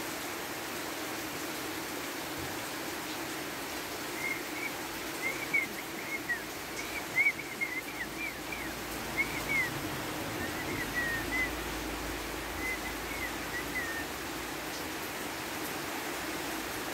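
Steady rain hiss, with a small bird chirping a quick series of short, high chirps from about four seconds in until about fourteen seconds in.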